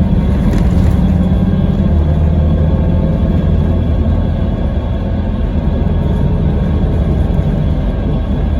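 Scania K320IB coach's five-cylinder diesel engine running steadily under way, with the low drone easing a little about two seconds in.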